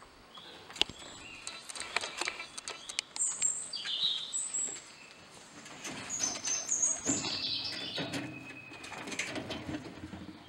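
Birds chirping in short high calls, with a lower cooing sound in the second half. Scattered sharp knocks and rustles, the loudest about a second in.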